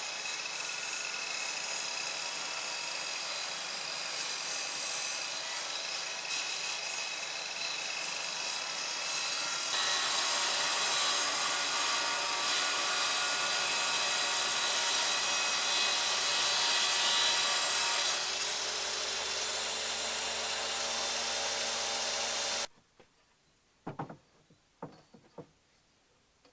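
Power tool working wood, running steadily in three stretches that change abruptly, louder from about ten seconds in. It cuts off near the end, followed by a few light knocks.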